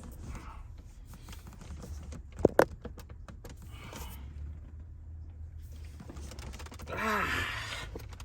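Plastic interior trim being handled and pressed into place: scattered small clicks and one sharper knock about two and a half seconds in. Near the end, a man strains with a groan.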